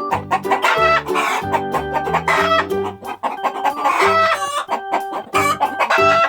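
Chicken clucking and rooster crowing sound effects over cheerful background music with a plucked-string melody and bass line.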